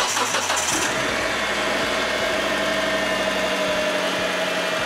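2005 Hyundai Tucson engine starting: it catches with a sudden loud burst, then settles within about a second into a steady idle.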